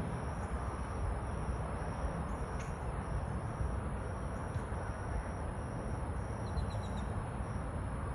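Steady outdoor background noise with a low rumble, and a few faint clicks. Near the end comes a quick run of four high chirps.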